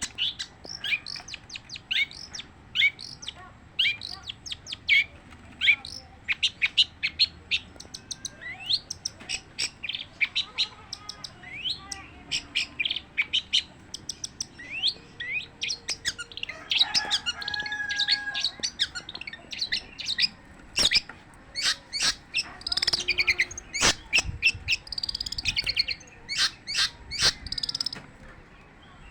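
Long-tailed shrike (cendet) singing continuously: a rapid run of short, high chirps and varied notes with hardly a pause, with some lower, longer phrases about halfway through.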